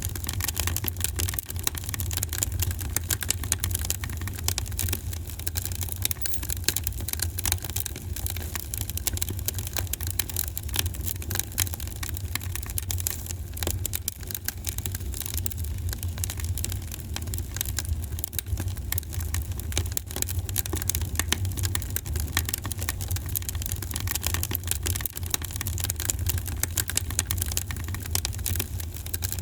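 Wood fire in a fireplace crackling steadily with many small, irregular pops, over a low steady rumble.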